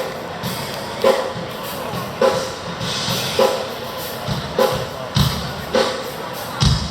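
A drum struck once about every second and a bit, at a slow, even pace, as in a sound check, with a few deeper kick-drum thuds near the end.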